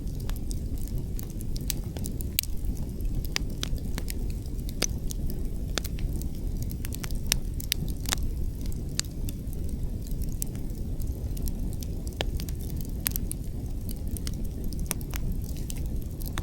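Wood fire crackling, with many irregular sharp pops and snaps, over a steady low rumble of wind.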